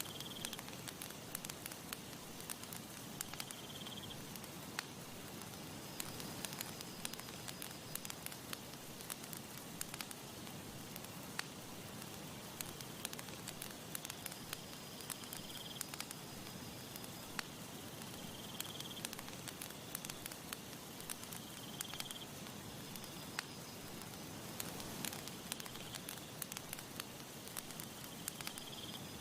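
Campfire crackling: frequent sharp pops and snaps over a steady soft hiss of burning wood. A faint high chirp recurs every few seconds in the background.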